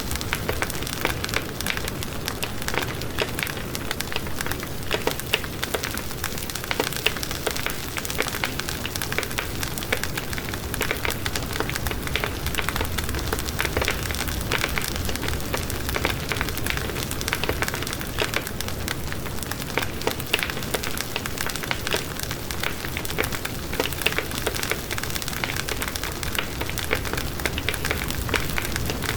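Wood fire burning in a fireplace, with dense, continuous crackling and popping over a soft low rush of flame.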